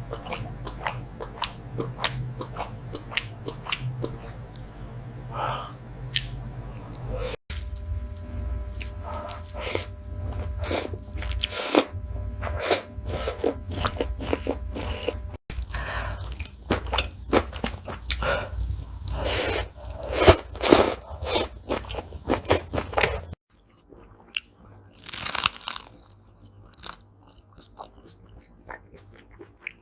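Close-miked eating sounds: chewing, biting and crunching of food, with many sharp crackly clicks, in several spliced takes that break off abruptly. Faint background music with a low steady hum underneath; the sounds drop to a quieter level about two-thirds of the way through.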